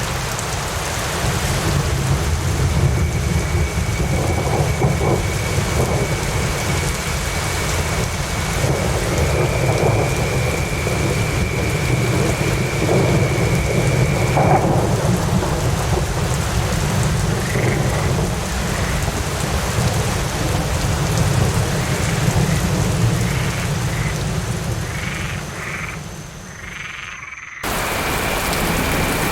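Steady heavy rain with a continuous low rumble of thunder, and frogs croaking over it. Near the end the sound sinks for a moment, then cuts back in suddenly.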